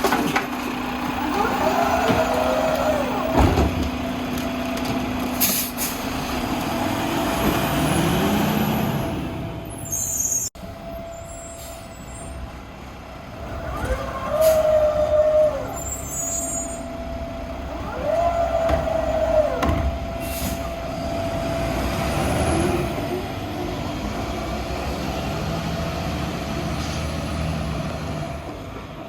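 Boivin Evolution garbage truck working bins: its diesel engine runs steadily while the electric arm's motors whine up and back down twice, with short air-brake hisses in between.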